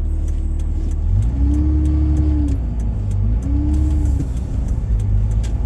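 Pickup truck's engine and road noise heard from inside the cab, a steady low rumble. The engine twice picks up in pitch and eases off again as it accelerates. A light, evenly spaced ticking sounds over it.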